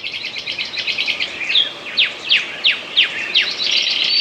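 Bird song: a quick run of chirps, then a string of sharp falling notes about three a second, then a dense trill near the end.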